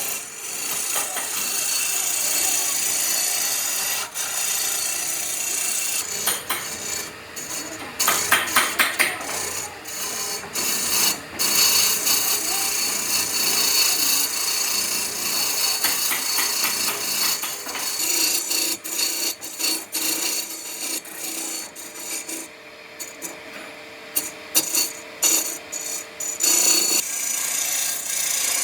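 Wood being worked with an abrasive or cutting tool: a hissing scrape that comes in uneven strokes throughout, with a quick run of ticks about eight seconds in.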